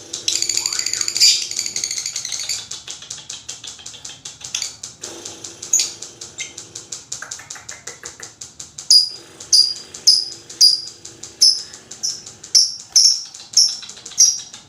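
Lovebird chattering in a long, fast run of rapid clicking notes: the continuous "ngekek" song. There is a harsh high call near the start. From about two-thirds of the way in, sharp high chirps come about twice a second.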